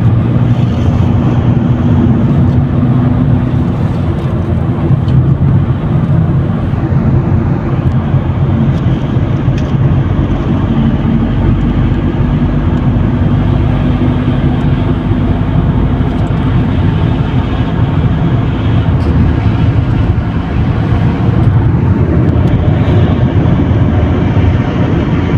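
A car driving along: a steady, low rumble of road and engine noise with a faint hum, heard from inside the car.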